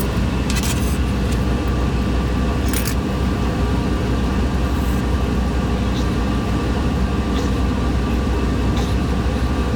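Steady low mechanical drone of commercial kitchen equipment, with a few short clinks near the start and about three seconds in.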